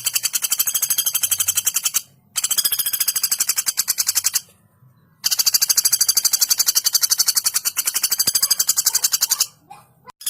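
Female common flameback woodpecker (pelatuk bawang) giving long, very rapid trilled calls of evenly repeated high notes, in three runs with short breaks between them.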